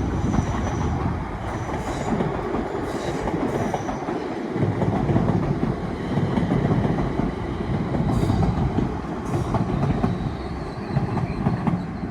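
Two coupled Class 350 electric multiple units passing through the station: a steady rumble of wheels on rails, with a few clicks from the rail joints.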